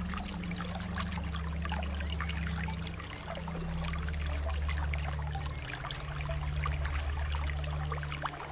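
Water trickling and bubbling in many small splashes, over a low steady hum whose pitch shifts every few seconds.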